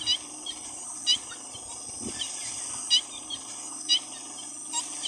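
Baby mouse lemurs calling for their mother: short, high chirps about once a second, over a steady high hiss.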